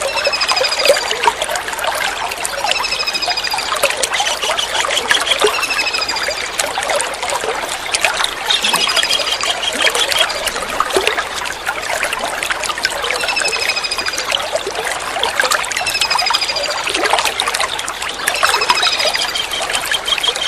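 Kingfisher calls: high, slightly falling trilled phrases repeated every second or two, over a steady trickle of running water.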